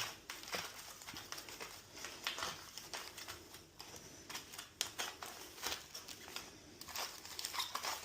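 Small parts being handled and fitted on an oven door: scattered light plastic clicks, scrapes and rustles as the black plastic trim piece is worked onto the bottom of the door.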